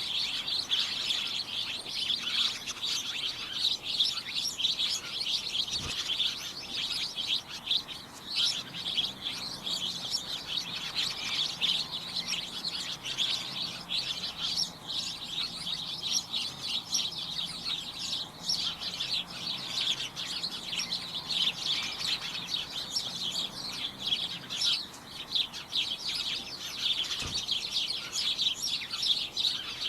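Many small birds chirping at once, a dense, continuous cacophony of short, overlapping high chirps and tweets.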